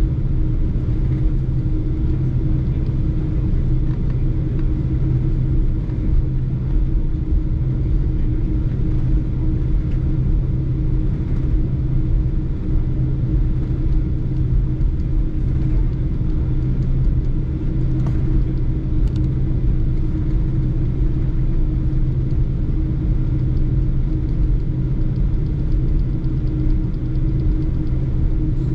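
Boeing 747-8 jet engines, GE GEnx, running with a steady low rumble and a constant low hum, holding level in pitch and loudness.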